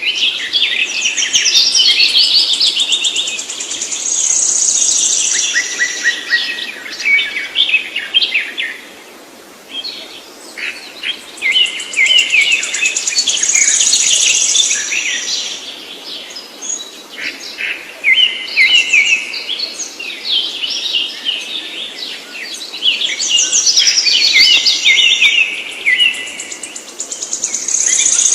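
A songbird singing long, complex phrases of rapid high chirps and trills, in bouts of several seconds with brief pauses between.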